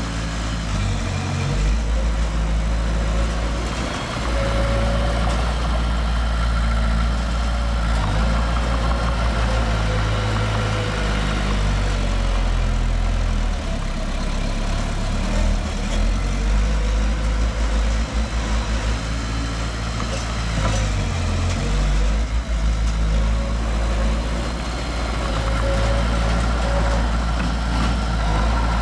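Heavy diesel engine of earthmoving machinery running steadily, its sound mostly deep, with a faint steady whine above it.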